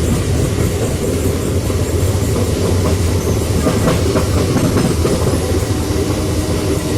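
Electric multiple unit (EMU) suburban train running steadily on the track, its wheels clattering over the rail joints.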